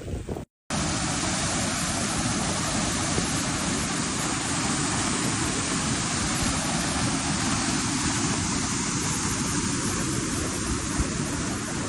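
A brief dropout about half a second in, then a steady, even rushing noise.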